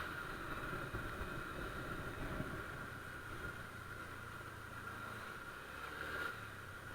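Honda Click scooter engine running steadily under way, with road and wind noise.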